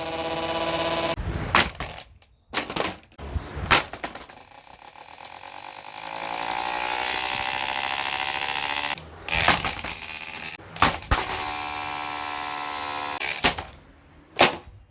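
A Mainstays box fan running, its motor hum slowly shifting in pitch. The hum is broken by about ten sharp blows and cracks as the fan is smashed.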